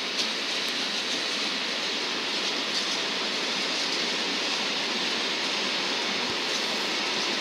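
Freight train of bulk-cargo hopper wagons rolling past: a steady, even rolling noise of wheels on rails, with a few faint clicks.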